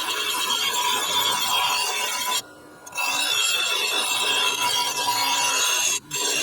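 Steel mower blade being sharpened, its cutting edge ground in long steady passes. The grinding stops sharply about two and a half seconds in, starts again half a second later, and breaks off briefly near the end.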